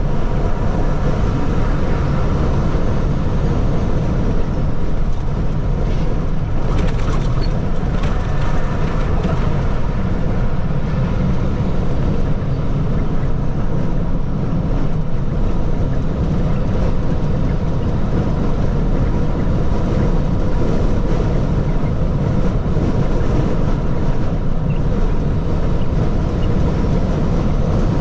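A heavy water truck running: a steady low engine rumble with a faint constant whine, holding level throughout.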